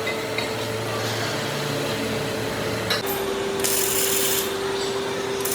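Workshop machinery running with a steady hum that drops slightly in pitch about halfway through, with two short bursts of hissing in the second half.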